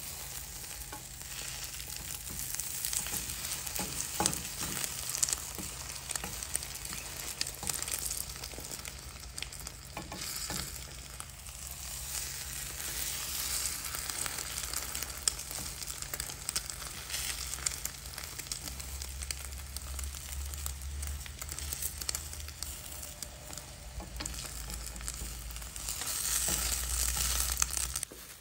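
Egg omelette sizzling in an oiled frying pan, with scattered light taps and scrapes of a wooden spatula and chopsticks as it is turned. The sizzle grows louder near the end.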